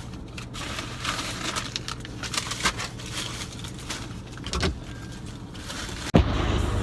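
Car interior sounds: a low engine hum with scattered clicks and handling noises. About six seconds in there is a sharp knock, and a much louder low rumble sets in after it.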